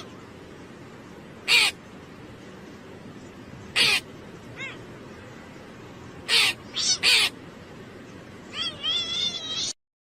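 Harsh, short animal calls, about five loud ones spaced a second or more apart, then a quicker wavering run of calls near the end, over a steady background hiss. The sound cuts off abruptly just before the end.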